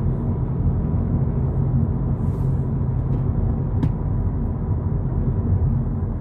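Steady low rumble of a 2022 VW Polo GTI driving at cruising speed, tyre and engine noise heard inside the cabin, with a single faint click about four seconds in.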